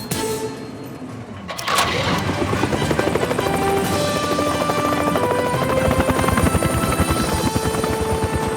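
Cartoon helicopter rotor sound effect, a fast steady chopping that starts about two seconds in, over background music.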